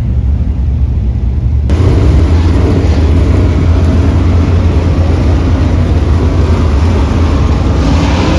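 Dirt track race car engines running loud with a deep, steady rumble. The noise turns suddenly louder and fuller about two seconds in.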